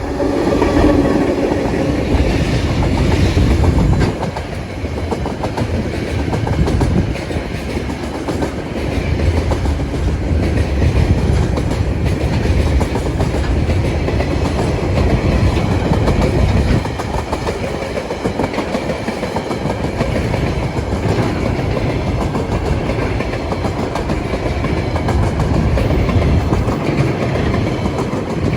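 Freight train passing close by: the locomotive's engine hum is heard for about the first four seconds, then container and empty log wagons roll past with a steady clickety-clack of wheels over the rail joints.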